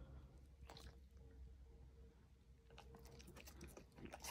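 Faint chewing and crunching of a black Labrador eating apple slices with yoghurt: a few soft crunches about a second in and again near the end, over a low steady room hum.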